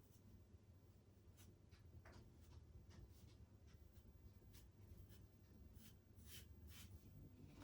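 Near silence with faint, scattered scratching and ticking of a screw being turned by hand with a screwdriver into a wall plug.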